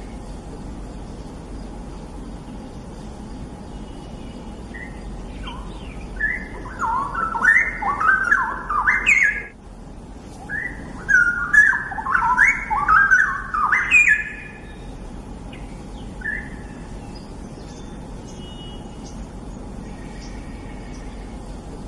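Straw-headed bulbul (cucak rawa) singing two loud phrases of fast, bubbling notes, the first starting about six seconds in and the second about eleven seconds in, each lasting roughly three seconds, with a few faint chirps before and after.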